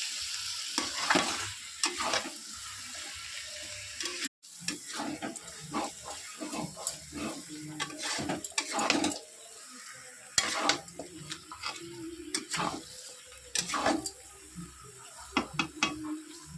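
Curry frying and sizzling in a pan while a utensil stirs it, scraping and knocking against the pan over and over. The sound breaks off briefly about four seconds in.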